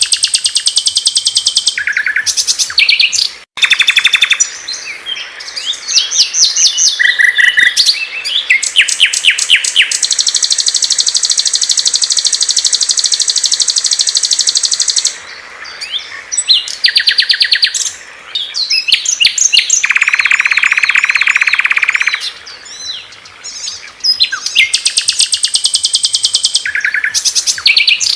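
Songs of several small songbirds spliced one after another in a birdsong training (masteran) recording: fast high trills and rapid chirping runs, changing suddenly from one bird's song to the next. A long, even high trill runs about 10 to 15 seconds in, and a lower, dense trill about 20 to 22 seconds in.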